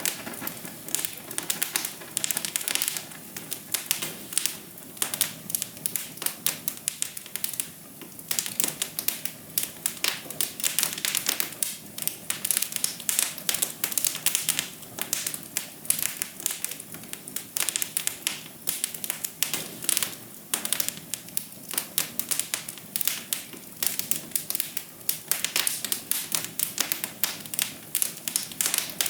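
Wood fire in a fireplace crackling, with quick irregular pops and snaps over a soft steady hiss.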